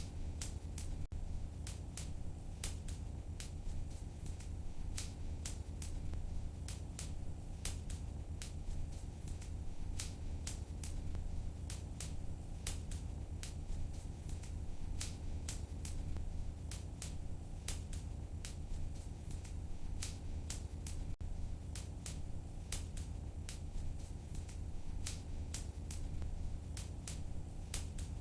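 Fire in a fireplace crackling, with irregular sharp pops several times a second over a steady low rumble.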